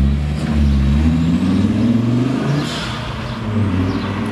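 Fiat Coupé's engine accelerating as the car pulls away: the note rises for about two and a half seconds, then drops and runs steadier at a lower pitch.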